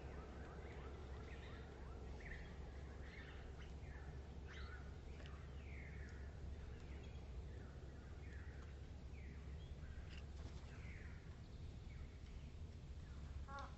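Small birds chirping faintly: a steady run of short, down-slurred chirps, about one or two a second, over a low steady hum.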